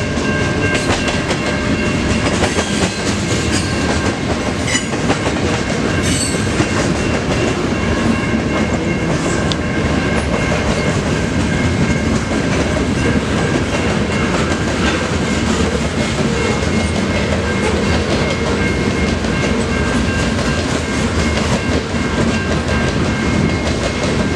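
Long freight train rolling past, its railcars clattering steadily over the rails, with thin steady high-pitched tones running above the rumble.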